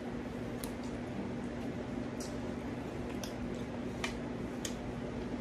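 Wet chewing and mouth sounds of someone eating spaghetti and meatballs, with a few small sharp clicks spread through, over a steady low hum.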